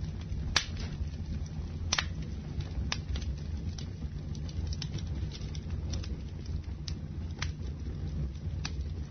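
Campfire crackling: scattered sharp pops and snaps of burning wood over a steady low rumble, the loudest pop about half a second in.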